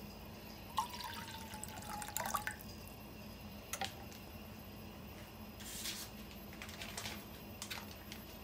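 Water dripping and splashing, with a few light clicks and knocks.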